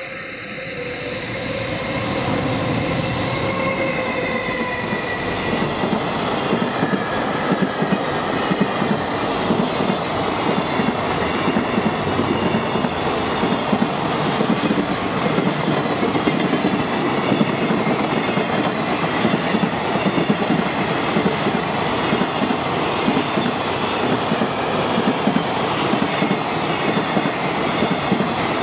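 JR Freight EF210 electric locomotive hauling a container freight train past at speed: the locomotive's motor whine falls in pitch as it goes by in the first few seconds, then a long line of container wagons rolls past with a steady rumble and rapid wheel clacks over the rail joints.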